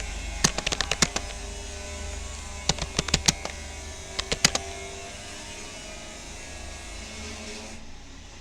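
Keystrokes on a Rapoo computer keyboard during a typing test: three short bursts of quick clicks, over a steady low hum. The typing stops about five seconds in.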